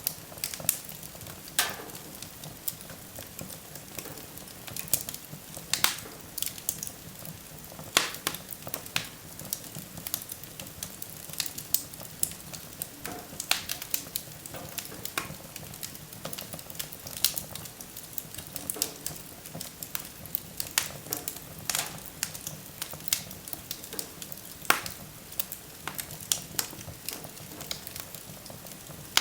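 Wood fire burning in a fireplace, crackling with irregular sharp pops and snaps over a steady low hiss.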